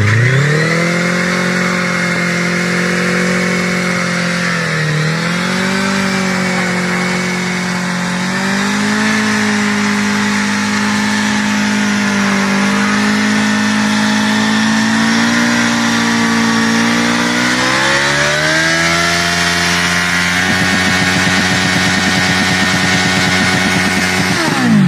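Motorcycle engine revving up quickly and then held at high revs at a nearly steady pitch, with small dips, as at a sustained high-speed run. Near the end the pitch drops steeply as the engine winds down.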